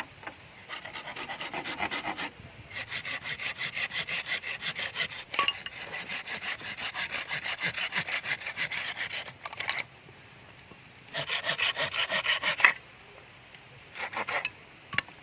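Hand saw sawing with quick back-and-forth strokes, in four bouts with short pauses; the longest bout runs about seven seconds.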